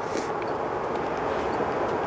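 Approaching train running steadily, an even mechanical noise with no horn.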